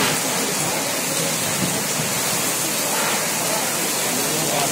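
Heavy rain pouring down onto a paved street, a steady dense hiss.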